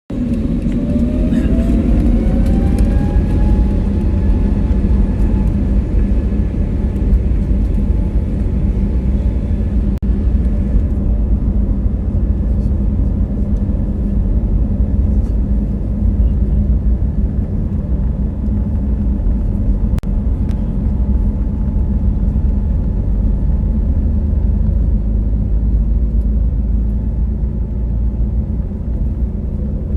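Airbus A320neo's Pratt & Whitney PW1100G geared turbofan engines spooling up to take-off thrust: a whine rises in pitch over the first few seconds, then settles into a steady heavy rumble as the jet rolls and climbs. The higher hiss drops away about eleven seconds in.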